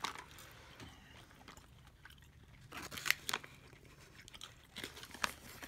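A person chewing crunchy candied banana walnuts, with a few sharper crackles about three seconds in and again near the end.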